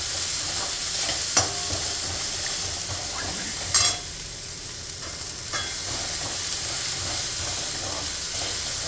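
Onion, ginger and green chilli frying in oil in a kadai with a steady sizzle, while a spatula stirs and scrapes the pan, giving a few sharp clinks, the loudest about four seconds in.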